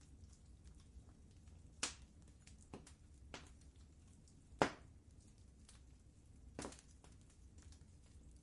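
Wood fire crackling in a fireplace: sparse sharp pops and small crackles over a faint low rumble, with three louder pops, the loudest a little past halfway.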